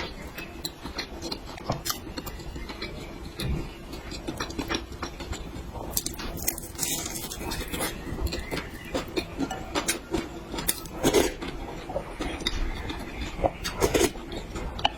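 Close-miked eating sounds: chewing and mouth noises with irregular clicks and taps of utensils against a dish.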